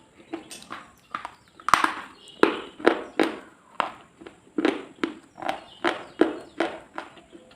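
Close-up crunching, a run of short sharp crunches about two a second, unevenly spaced.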